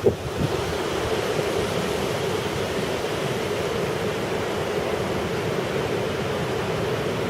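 Typhoon wind: a steady, unbroken rushing noise.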